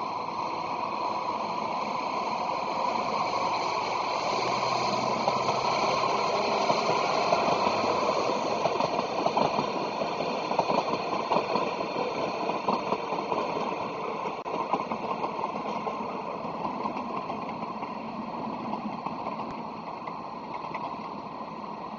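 Passenger train running past on the tracks, its rumble and rail noise swelling to a peak with a few sharp clanks as it goes by, then fading away.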